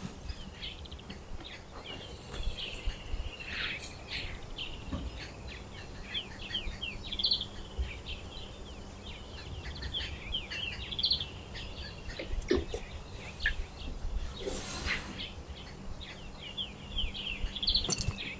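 Wild birds chirping and calling continuously, many short repeated chirps, with a brief rustle late on.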